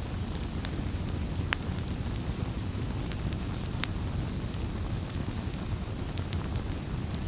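Wood campfire crackling: scattered sharp pops and snaps over a steady low rumble of burning, with two louder pops, one about one and a half seconds in and one around four seconds.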